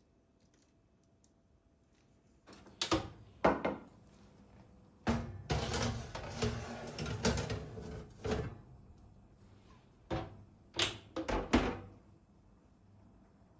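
Household handling noises: a pair of sharp knocks, a longer stretch of clattering, then a few more knocks and clicks, like cupboard doors and objects being moved about.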